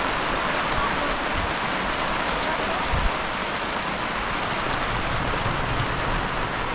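Heavy rain falling steadily on a plastic tarp canopy overhead and on the bare earth around it, an even hiss.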